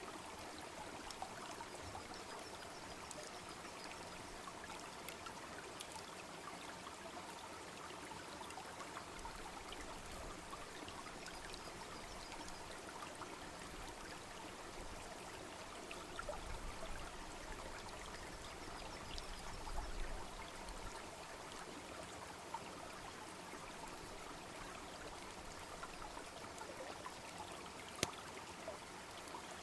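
Small babbling brook flowing steadily, with scattered crackles from a wood campfire and one sharp pop near the end. Two brief low rumbles rise and fade around the middle.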